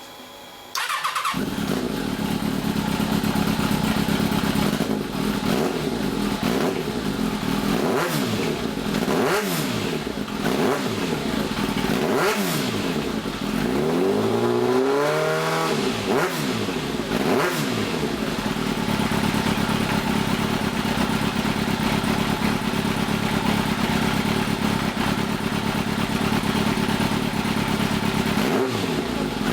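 Kawasaki ZZR1100 D's inline-four engine started on the starter, catching about a second in, then running with a series of short throttle blips and one longer rev in the middle before settling to a steady idle; one more blip near the end. It is a bike being brought back to running order.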